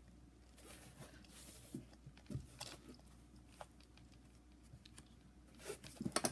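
Faint paper rustling and a few small knocks as a handmade paper junk journal is handled and turned over, with a short cluster of rustles near the end.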